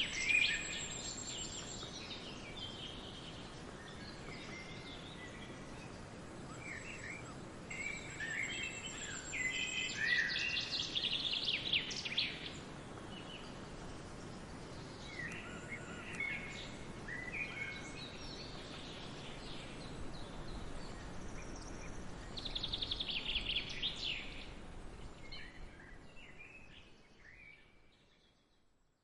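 Birds chirping and calling over a steady outdoor background hiss, with a few short runs of rapid trills. The sound fades out over the last few seconds.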